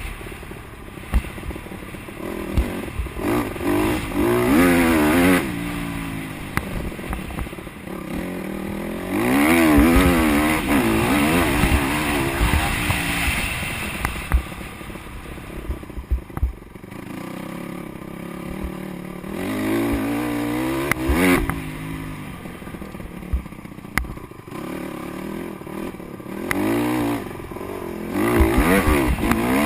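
Honda CRF150R motocross bike's single-cylinder four-stroke engine revving up and down as it is ridden hard. There are about four loud stretches of throttle with the pitch swinging, and quieter running between them.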